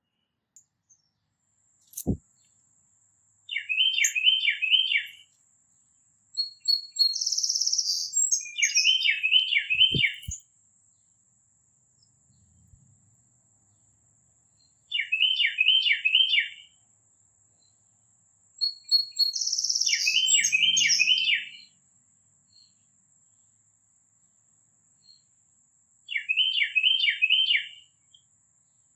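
A songbird singing a repeated phrase of four quick, down-slurred whistled notes every five or six seconds, with a short buzzy note just before two of the phrases. Two sharp clicks are heard, about two and ten seconds in.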